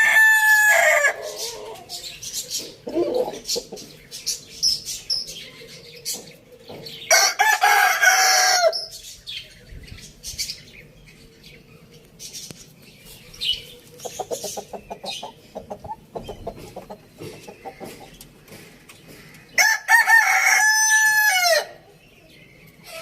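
Roosters crowing: one crow trails off about a second in, and two more full crows come at about a third of the way through and near the end. Fainter chicken clucks and short calls sound between the crows.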